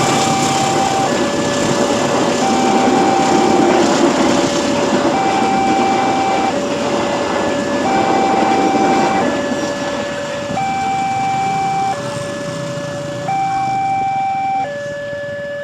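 Railway level-crossing warning alarm sounding, a two-tone signal alternating a high note and a lower note, each held about a second and a half. Under it a passing train rumbles, dying away about ten seconds in.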